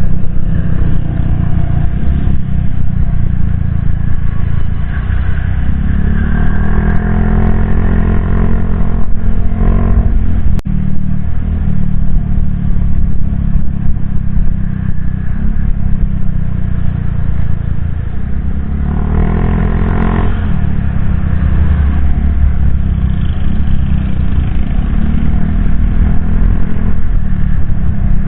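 Motorcycle engine running while riding, its pitch rising and falling as the throttle changes, with a steady low rumble of wind on a helmet-mounted external mic.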